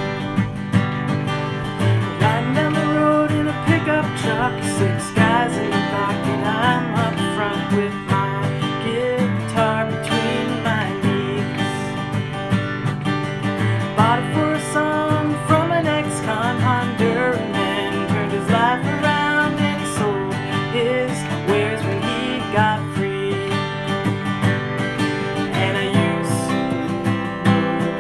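Acoustic guitar strummed and picked, playing a song's instrumental passage.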